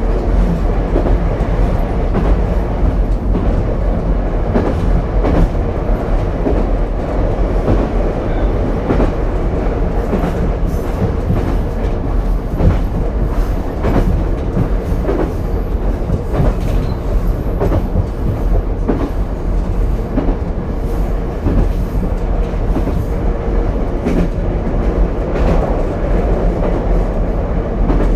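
Ichibata Electric Railway 7000-series electric railcar running along the line at a steady pace. A continuous rumble is broken by irregular clicks of the wheels over rail joints.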